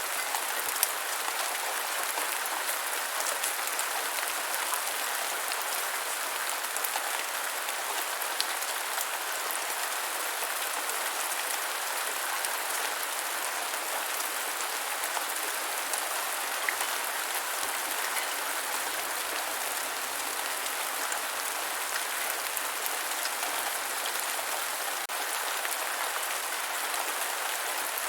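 Steady rain falling on the ground, an even hiss with a few separate drops ticking now and then.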